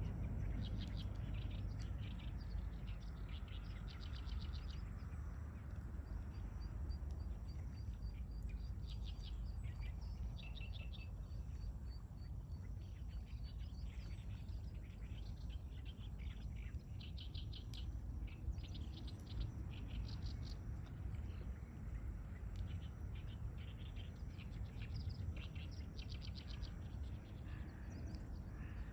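Several songbirds singing and chirping in a dawn chorus: quick trilled phrases over one another, with a run of evenly repeated high notes for several seconds near the middle. Under the birdsong runs a steady low rumble.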